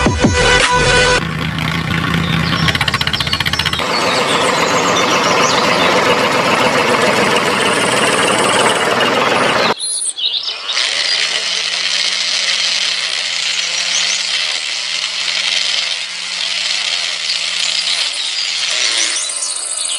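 Harsh, noisy machine and engine running. It breaks off abruptly about ten seconds in, and a different engine-like running sound with a steady low hum follows.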